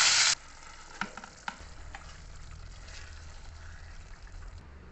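Okra stir-frying in hot oil in a metal kadai: a loud sizzle that cuts off abruptly a moment in. Then thick masala gravy is stirred more quietly, with a few clinks of a steel spatula against the pan.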